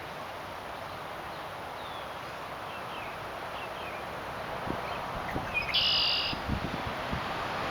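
A grackle calling: a few faint short chirps, then, about six seconds in, a loud, harsh, squeaky rasp lasting about half a second, over steady background noise.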